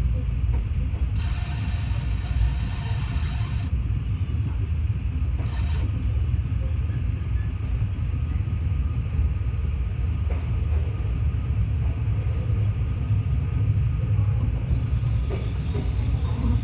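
Mugunghwa-ho passenger train running, heard from inside the carriage: a steady low rumble of wheels on the rails, with a hissing rush over it from about a second in for a couple of seconds.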